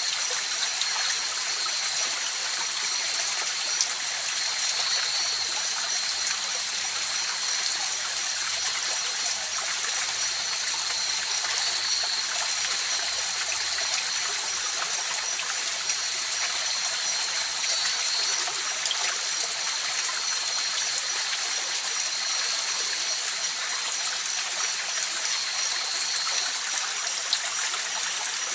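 River water flowing in a steady, even rush, with a continuous high-pitched trill of night insects over it.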